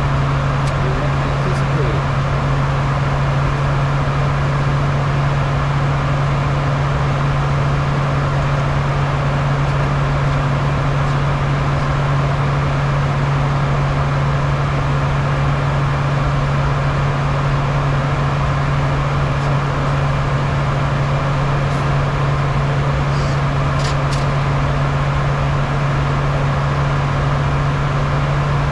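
Bombardier Challenger 350 business jet in flight: a steady rush of airflow and engine noise with a constant low hum underneath.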